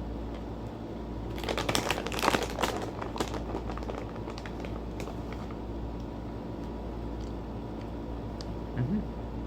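Snack bag crinkling as it is handled, a burst of about two seconds starting just over a second in, followed by a few faint ticks.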